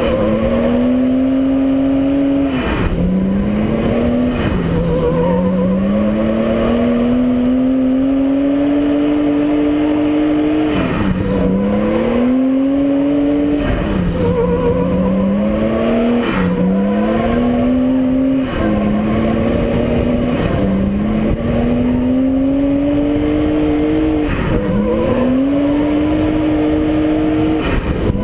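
Nissan RB straight-six in an S13 drift car revving hard. Its pitch climbs steadily and then drops sharply every few seconds, over and over through the run.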